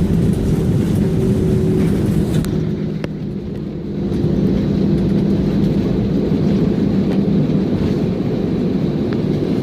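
Airliner cabin noise: a steady low rumble with the jet engines' hum, heard from a passenger seat. The level dips briefly about three seconds in.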